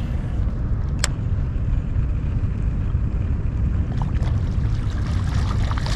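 Steady low wind rumble buffeting a GoPro microphone out on open water, with a single sharp click about a second in.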